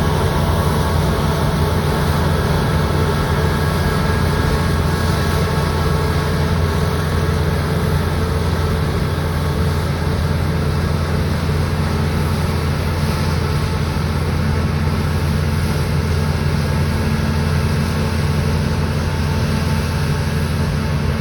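Claas Lexion 760 combine harvester running steadily while threshing barley: a deep, even engine drone with a constant noise of the machinery over it.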